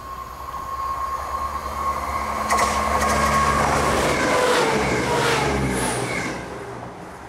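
A diesel multiple unit passing through at speed: a rising rush of wheels on the rails as it approaches, a few sharp wheel clicks, and a tone that drops in pitch as it goes by before fading near the end.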